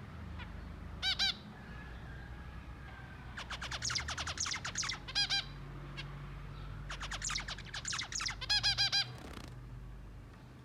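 Zebra finches calling and singing: short nasal honking calls, and two bouts of rapid buzzy notes strung with repeated honks.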